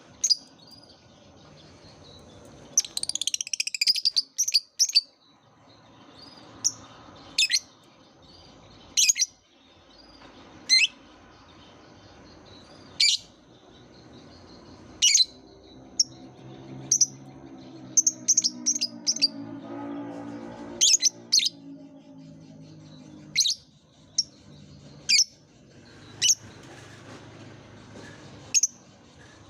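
Lovebird calling: short, sharp, high-pitched chirps every second or two, with a rapid chattering burst about three seconds in. A faint low murmur sits under the calls in the middle.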